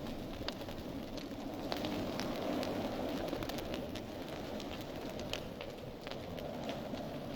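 Fireplace fire burning: a steady low rush of flames with frequent sharp crackles and pops scattered throughout.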